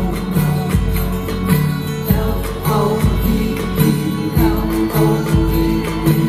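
Live band music with guitar, steady held bass notes and a regular beat.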